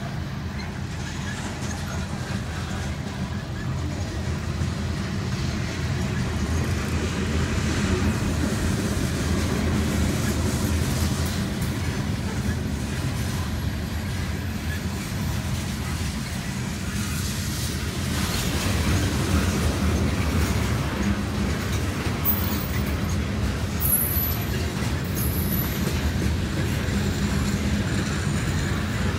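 Freight train cars (hoppers, tank cars and boxcars) rolling steadily past at a grade crossing, a continuous rumble of wheels on the rails. For the first part it is heard from inside a car cabin.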